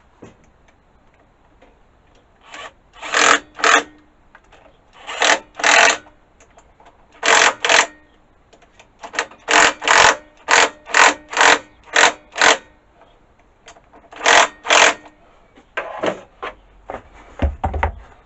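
A lawnmower carburettor's primer bulb being pressed over and over, each press a short hissing squirt of air and fuel, mostly in pairs and quick runs. The primer is now priming well. A low thump comes near the end.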